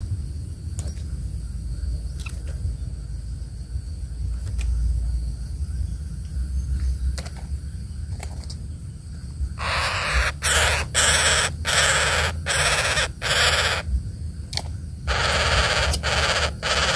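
A bird giving harsh, rasping calls in two loud runs, about two a second. The first run starts about halfway through and the second comes near the end, over a steady low rumble.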